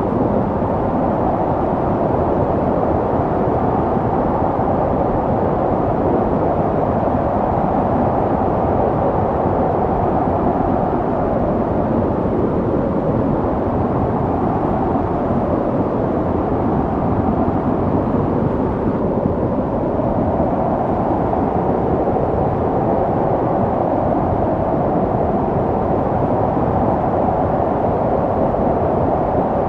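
Snowstorm wind blowing steadily: a low, dense rushing with slow gentle swells.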